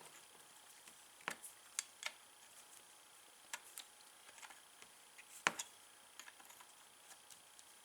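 Scattered light clicks and taps of hand tools and metal parts being handled while reassembling a golf cart starter/generator, with a sharper knock about a second in and another, the loudest, about five and a half seconds in.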